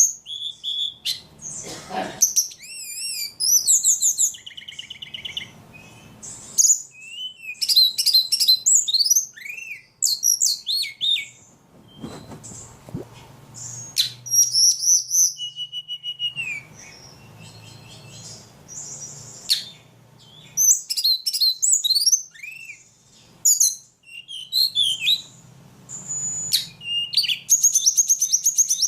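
A ledekan songbird singing a long, varied song of quick chirps, trills and whistles, phrase after phrase with short breaks between.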